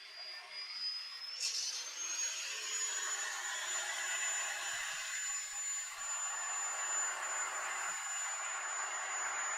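Cut-off saw's electric motor running with a high whine that rises in pitch about a second and a half in, then holds steady at speed.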